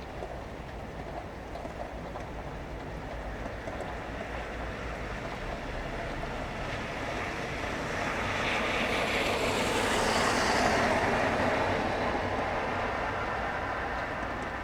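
A vehicle passing by on a rain-wet road, its tyre hiss swelling to a peak about ten seconds in and then fading, over steady rain.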